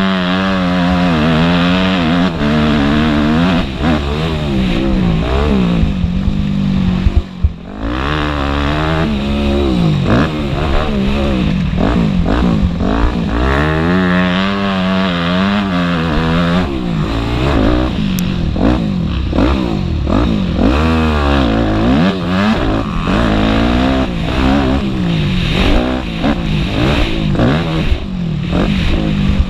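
Motocross bike engines racing, revving up and dropping back again and again as the riders work the throttle and shift, with a brief cut-off of the throttle about seven seconds in.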